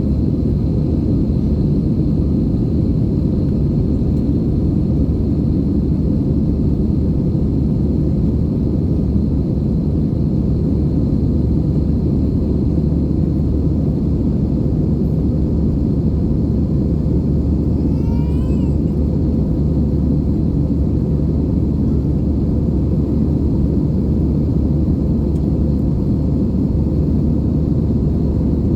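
Steady cabin noise inside an Airbus A320-family jet in flight: a loud, even rumble of engines and airflow with a constant hum. About two-thirds of the way through, a brief wavering higher sound rises over it.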